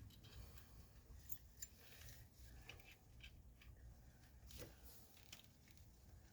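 Near silence broken by a scatter of faint small metallic clicks: steel lock washers being handled and slipped onto bolts.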